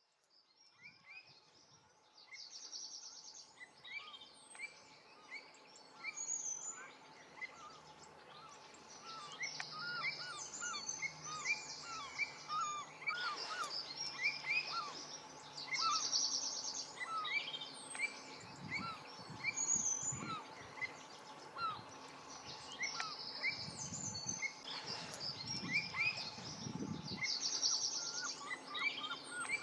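A mixed chorus of songbirds, with many short chirps and calls overlapping and one bird repeating a short high trill every six seconds or so. Low rumbles come and go in the second half.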